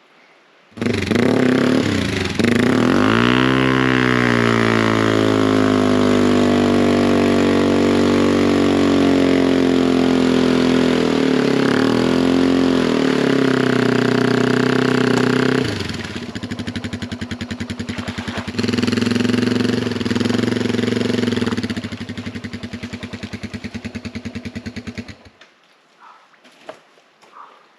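Yamaha TW200's single-cylinder four-stroke engine revved hard while the bike is stuck in mud: the revs climb a couple of seconds in and hold high and steady, drop briefly, rise again, then the engine cuts off abruptly near the end.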